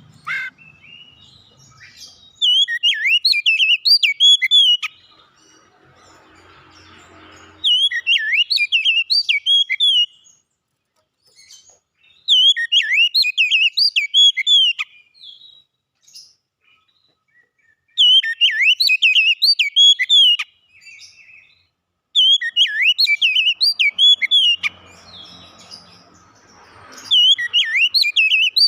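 Oriental magpie-robin (kacer) singing: bursts of rapid, varied whistled notes, each lasting two to three seconds, six times over with short pauses between.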